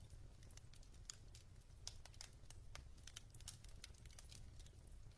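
Faint crackling of a wood fire in a fireplace: scattered, irregular small ticks and pops over a low steady hum.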